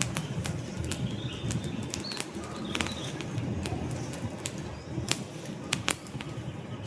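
Wood fire burning in a fireplace: irregular sharp pops and snaps from the logs over a low, steady rumble of the flames.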